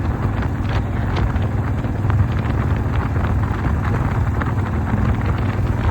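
1988 Harley-Davidson Softail's Evolution V-twin engine running steadily while under way, with wind buffeting the microphone.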